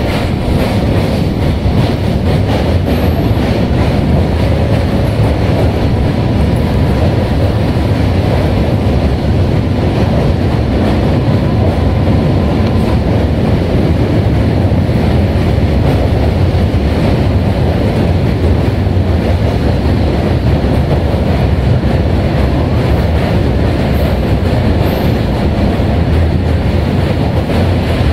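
Passenger train running across a steel truss railway bridge, heard from an open coach doorway: a steady, loud rumble of wheels on the rails and bridge deck.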